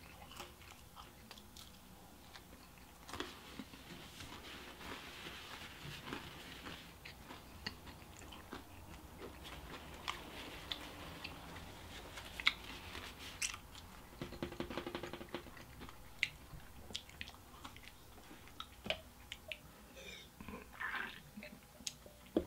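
A person chewing and biting food close to the microphone: soft wet mouth sounds with scattered small crunches and clicks.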